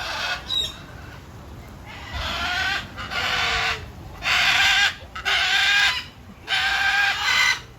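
A parrot squawking: a run of about five harsh calls, each under a second long, louder from about halfway through.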